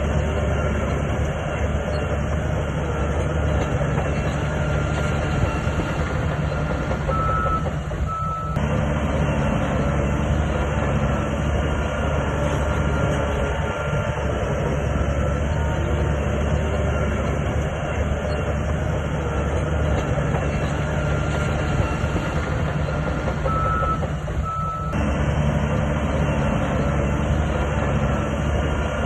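SHANTUI DH17C2 bulldozer's diesel engine running steadily under load, a continuous low drone. Short high beeps sound twice, about eight seconds in and again near twenty-four seconds.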